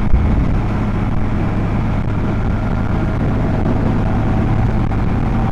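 Honda Rebel 250's small twin-cylinder engine running steadily at a constant throttle while cruising in gear, heard from the rider's helmet, with wind noise.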